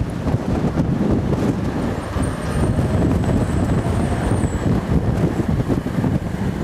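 Storm-force wind buffeting the microphone: a loud, gusting low rumble. A faint high whistle comes in partway through.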